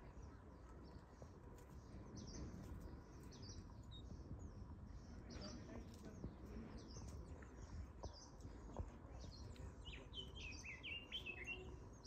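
Birds chirping faintly: short high calls repeated throughout, with a quick run of lower calls near the end.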